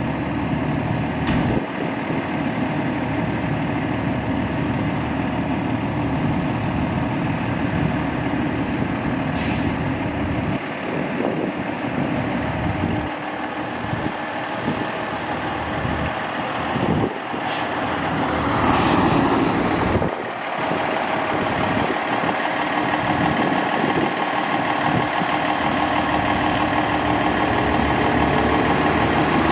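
Fire truck's diesel engine running in street traffic, with a few short hisses and a louder stretch in the middle.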